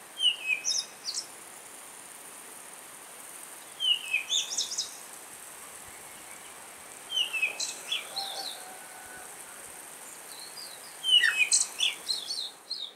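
A bird singing short phrases of quick, falling chirps, four times about three to four seconds apart, over a steady faint high hiss.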